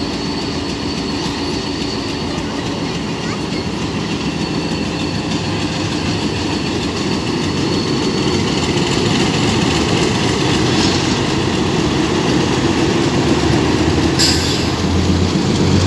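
A Bangladesh Railway diesel locomotive and its passenger coaches passing slowly at close range: the engine running and the wheels clattering on the rails, growing louder toward the end. There is a brief sharp hiss near the end.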